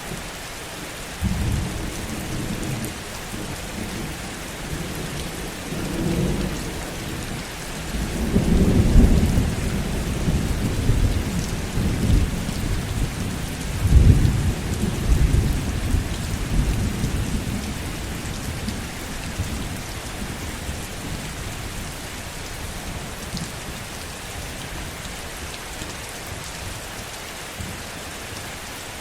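Heavy rain falling steadily, with low rolls of thunder rumbling from about a second in, loudest around nine and fourteen seconds in, then dying away so that only the rain remains near the end.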